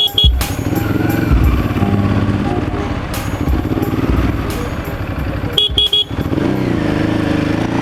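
Yamaha R6 inline-four sport bike engine revving up and falling back through the gears as it rides. Short high-pitched beeps sound at the start and three more about six seconds in.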